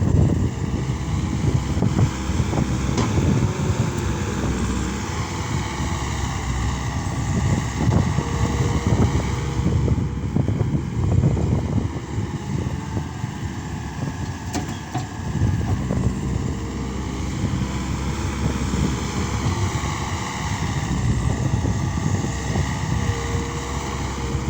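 Case SR200 skid steer loader's diesel engine running under working load, its revs rising and falling several times.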